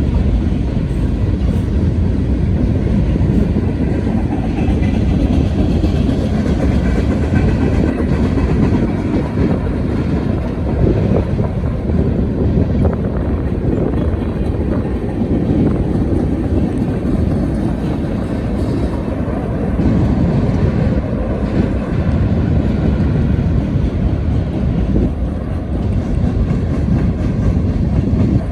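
Union Pacific manifest freight train rolling past, a steady loud rumble of freight cars with wheels clattering over the rail joints.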